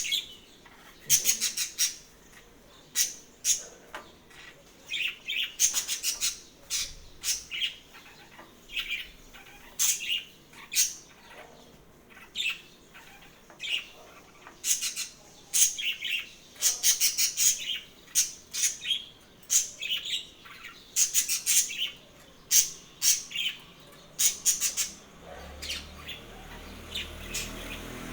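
Small songbirds chirping in quick bursts of high notes, again and again, played as a sound meant to stir pet birds into activity. A low rumble comes up near the end.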